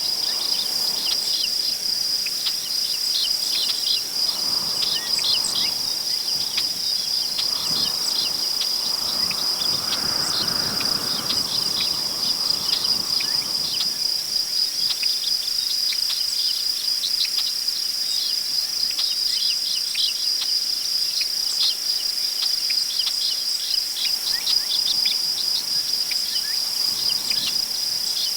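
Crickets chirping in a steady, high, rapidly pulsing trill, with wind rustling through tall prairie grass that swells for several seconds early on and then eases.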